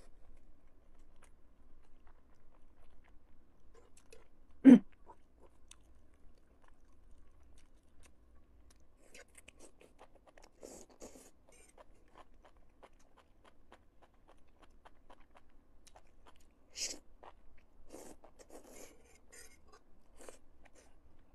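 Close-miked eating sounds: chewing of spicy strips in chili oil, with many small clicks and a metal spoon lifting the food. One sharp knock, a little under five seconds in, is much louder than the rest.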